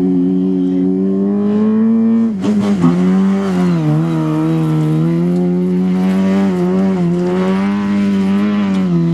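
Rally car engine running hard at high revs on a gravel stage, its pitch climbing and dropping back several times.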